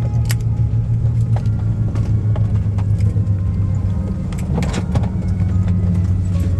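Steady low rumble and hum inside an Airbus A330-300's cabin, with a few brief rattles or clicks.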